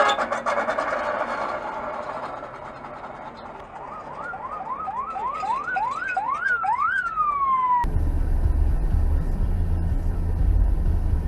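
An electronic alarm or siren sounds a run of about nine quick rising chirps, each longer and higher than the last, and the final one glides back down. It cuts off abruptly and gives way to a steady low vehicle rumble of engine and road noise.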